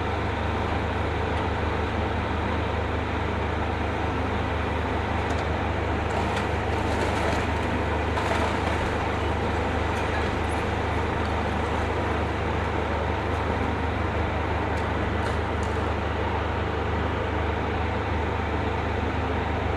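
Demolition excavator's diesel engine running steadily as it works on the building, with a few faint knocks of falling debris about a third of the way in and again later.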